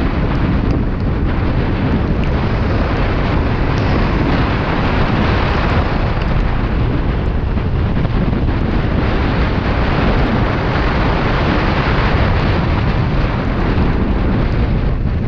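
Steady, loud wind rush over the microphone of a Kawasaki Ninja 400 motorcycle at riding speed, with no clear engine note standing out of it.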